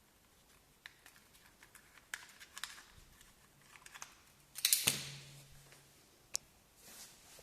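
Small clicks, taps and rustles of a motorcycle phone holder being handled, with a louder rattling scrape about four and a half seconds in and a sharp click near the end.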